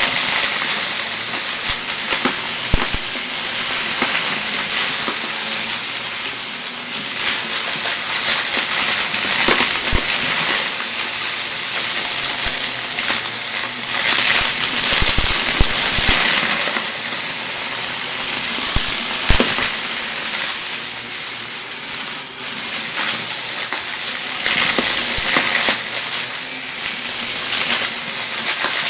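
Vacuum cleaner running with a steady hiss of suction, picking up crunchy debris that clicks and rattles through the nozzle many times.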